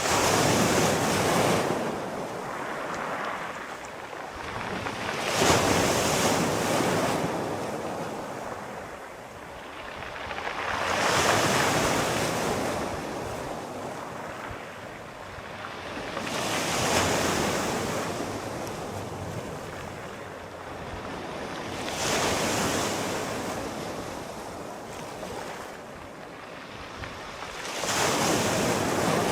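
Sea waves breaking and washing in, a wave about every five to six seconds, each swelling into a loud rush of surf and then ebbing.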